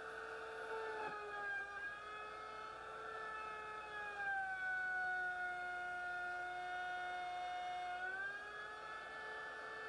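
Electric wood router's motor running with a high, steady whine. Its pitch sags slightly about four seconds in and rises back near the end.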